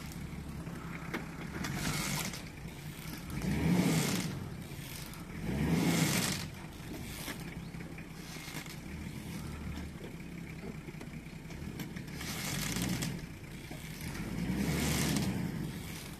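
Nissan Patrol Y60 engine running with a steady low hum, swelling louder several times for about a second each.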